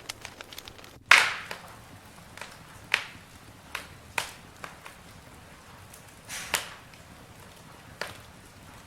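Campfire crackling, with irregular sharp pops from the burning wood over a low hiss; the loudest pop comes a little over a second in, and a few more follow every second or two.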